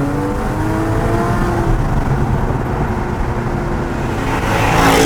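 A car engine accelerating, its pitch rising for the first second and a half. A second acceleration with a rush of noise comes near the end.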